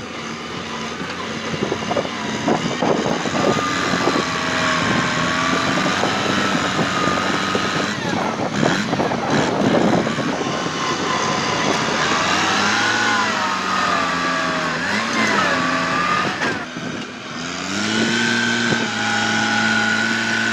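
Kubota tractor's diesel engine working under changing load, its speed rising and falling, with stretches of crackling noise about two to four seconds in and again about eight to ten seconds in. Near the end the engine dips briefly, then climbs and holds a steady higher speed.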